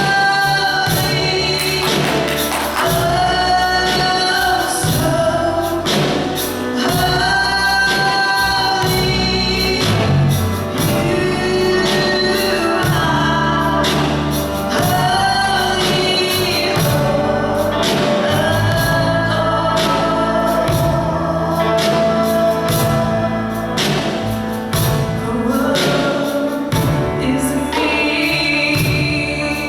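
Gospel song sung by a choir or congregation of mixed voices over a band with a steady beat and bass.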